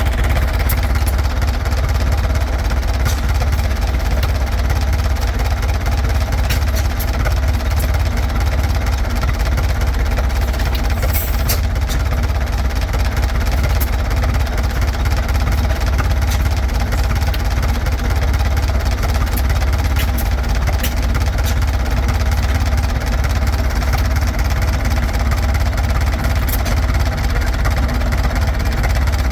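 Hart-Parr 50 stationary engine running steadily with a low, even sound.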